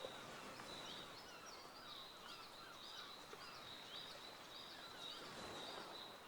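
Faint outdoor ambience: small birds chirping in short, evenly repeated calls about twice a second, over a steady thin high tone.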